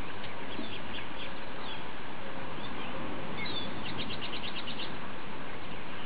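Birds chirping over a steady background hiss: scattered short high chirps, then a quick trill of about nine notes around four seconds in.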